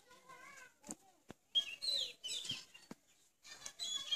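Birds chirping in short bursts of quick, falling high notes, with a few sharp clicks in between.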